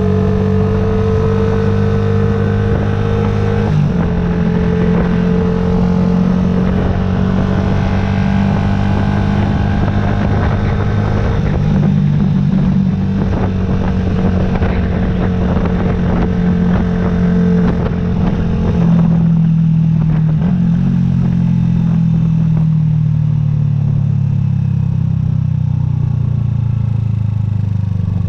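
2009 Yamaha YZF-R125's 125 cc single-cylinder four-stroke engine running at a steady pitch under way, with a brief break about four seconds in. Past the middle the pitch drops and keeps falling as the bike slows.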